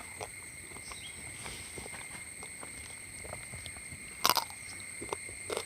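Someone chewing and biting into fried quail, bones and all: soft irregular crunches and clicks, with one louder crunch about four seconds in.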